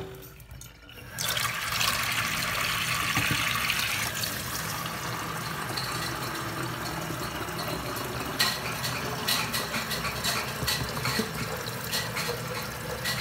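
Water running from a tap into a container to fill it. It is a steady rushing that starts about a second in, and the sound dulls a little about four seconds in.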